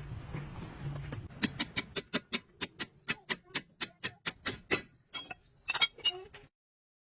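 A rapid, even series of sharp clicks or taps from a hand tool, about six a second for roughly three seconds, then a few uneven knocks before the sound cuts off abruptly.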